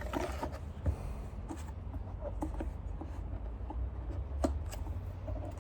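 Scattered small clicks, taps and scraping of plastic parts as a Dyson vacuum's housing is handled and worked apart, with one sharper click about four and a half seconds in.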